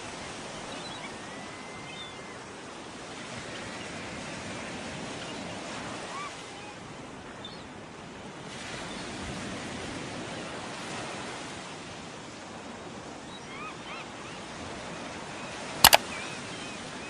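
Sea surf washing steadily, swelling and easing every few seconds, with a few faint short high chirps over it. Near the end come two sharp clicks close together, louder than the surf.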